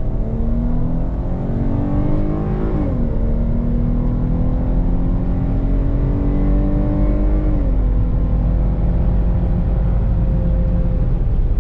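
Dodge Challenger's V6 engine accelerating under throttle, its pitch climbing and dropping twice as the transmission upshifts: once about three seconds in and again about two thirds of the way through, then holding steady. The V6 note is muffled rather than a rumble.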